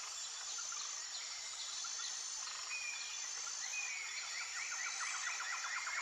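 Forest wildlife ambience: a steady high insect drone, with an animal's rapid run of short repeated calls that grows denser in the second half.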